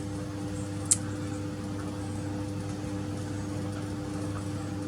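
Steady mechanical hum of a machine running, with one sharp click about a second in.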